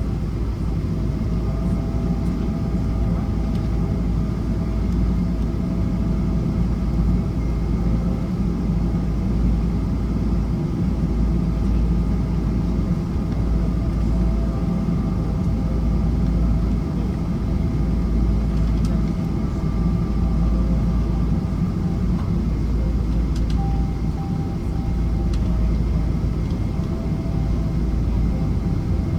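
Steady low rumble of a Boeing 777-200ER heard inside the cabin as it taxis after landing: engines at idle and wheels rolling on the taxiway, with a faint steady whine.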